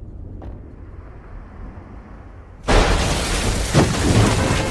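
Low rumble, then a sudden loud crash about two-thirds of the way in that carries on as a heavy, noisy rumble with a few sharp knocks.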